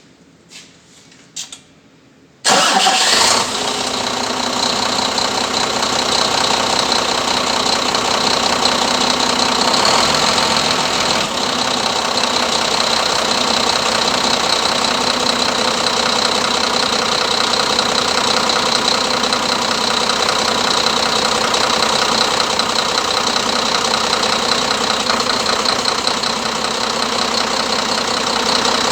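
A used replacement Scania DC13 13-litre inline-six diesel engine started for the first time after fitting: a few faint clicks, then it fires suddenly about two and a half seconds in and runs steadily at idle, with a steady high whine over the engine note.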